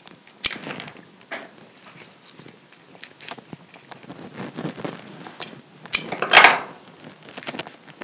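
Pussy willow twigs being handled and pushed into an arrangement: scattered clicks and light rustling, with a sharp click about half a second in and a louder brief scrape about six seconds in.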